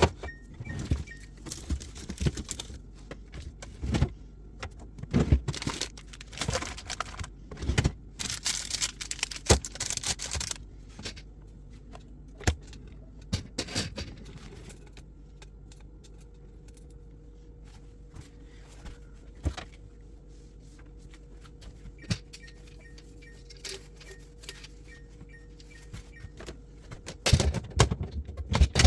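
Jars, bottles and containers clinking and knocking as they are handled and set on refrigerator shelves, busiest in the first half, with a couple of seconds of rustling hiss about eight seconds in. It then goes quieter, with a few scattered knocks over a faint steady hum, before the clinking picks up again near the end.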